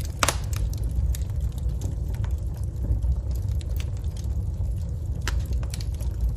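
Wood fire burning in a fireplace: a steady low rumble of the flames with scattered sharp crackles and pops, a loud pop just after the start.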